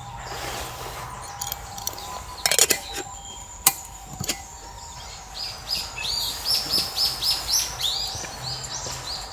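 A few sharp clicks and knocks in the first half. In the second half a songbird sings a rapid series of repeated chirping notes, about four a second.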